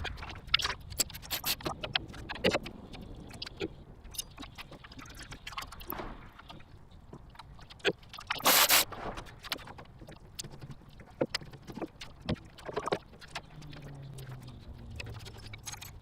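Irregular clicks, knocks and metal clanks of hand tools and car parts being handled during an engine removal, with a louder rasping burst about halfway through.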